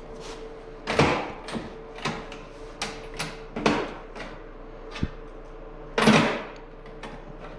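A string of sharp clanks and knocks from hand tools being handled, about six over several seconds, the loudest about six seconds in. A faint steady hum runs underneath and fades out about halfway.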